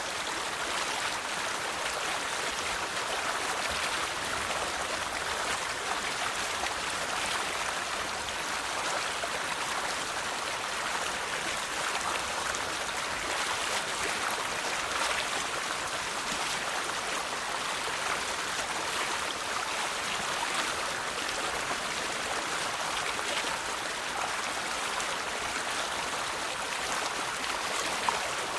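River water flowing steadily over rocks, an even rushing and babbling. A single brief splash or click stands out near the end.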